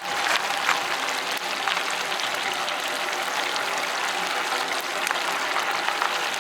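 Steady sizzling and crackling of sirloin steak grilling over an oak wood fire: a continuous hiss dotted with small pops.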